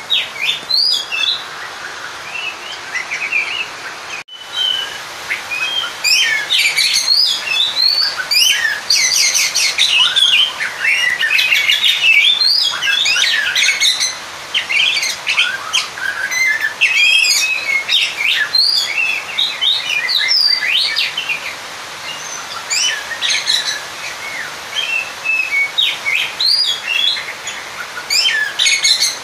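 Oriental magpie-robin (kacer) singing a fast, varied run of chirps, trills and whistles: the challenge song it gives when seeking a rival. There is a brief break about four seconds in. The song is densest through the middle and thins out toward the end.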